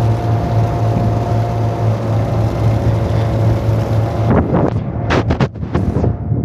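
A passenger boat's engine drones steadily on board. About four seconds in, a few gusts of wind buffet the microphone.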